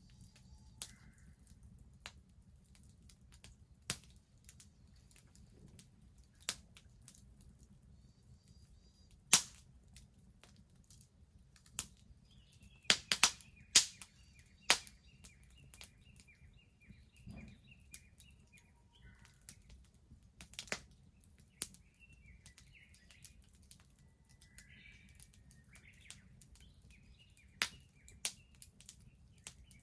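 Wood bonfire crackling, with sharp pops at irregular intervals, a cluster of the loudest about 13 seconds in. Birds chirp in the background, a quick run of calls near the middle.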